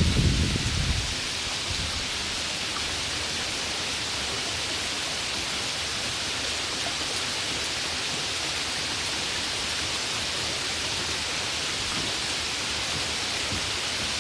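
Steady rain hiss with no individual drops standing out. A deep thunder rumble dies away about a second in.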